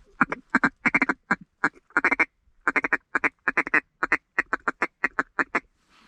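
Handheld waterfowl call blown in quick runs of short, clipped quacking notes, about twenty in all with a short pause partway through, loud and close.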